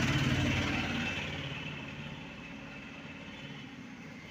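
A steady engine-like rumble with a rapid pulsing, loudest at the start and fading slightly.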